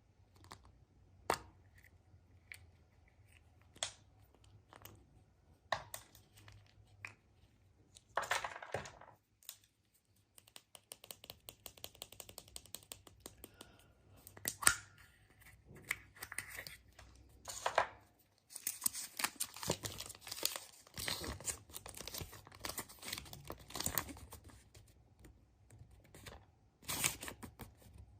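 Foil wrapper of a chocolate surprise egg being torn open and crinkled, with scattered sharp clicks of handling. The crinkling comes in bursts, longest in the second half.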